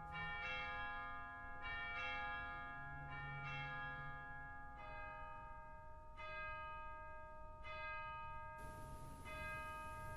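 Bells ringing a slow sequence of single notes. There are about eight strikes, a little over a second apart and spacing out toward the end, and each note rings on into the next.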